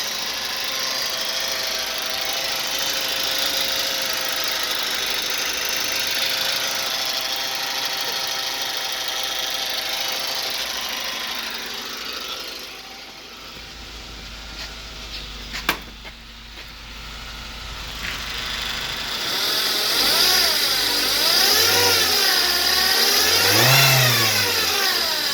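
2008 Ford Focus engine idling steadily, dropping quieter about halfway with a single sharp click, then revved up and let fall back a few times near the end.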